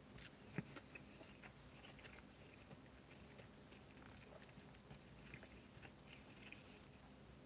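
Faint sound of a man chewing a mouthful of burger with his mouth closed, with soft scattered wet mouth clicks and one slightly louder click about half a second in.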